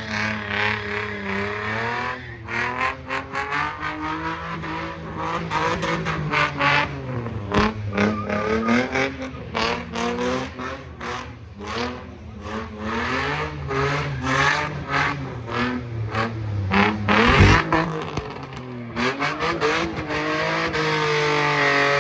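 Car engine revving hard, its pitch climbing and falling again and again, with many short choppy breaks in the sound.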